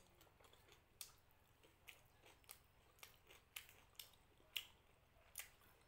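Faint close-up eating sounds: short, sharp wet clicks, roughly one a second and unevenly spaced, from chewing a mouthful of fried rice and curry.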